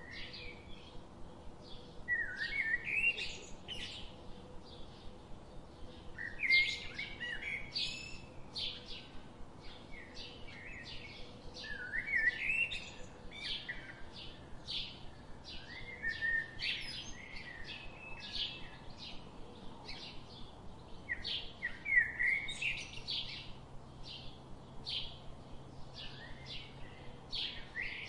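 Birds singing: a steady run of short, high chirps two or three times a second, with a louder rising song phrase breaking in about every five seconds.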